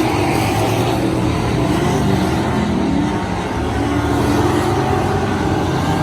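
Race car engine running at speed, its pitch wavering up and down slightly as it is driven.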